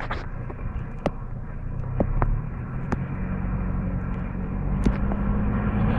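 A car's engine running with a steady low rumble, its hum growing steadier in the second half, with several sharp clicks scattered through.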